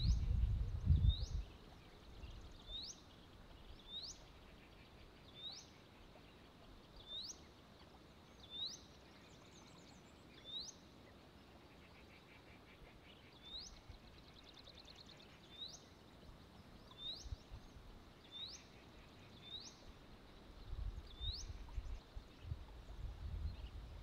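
A bird repeating a short, high, sharply rising note every second or two, over faint outdoor background noise. A low rumble comes in during the first second and again in the last few seconds.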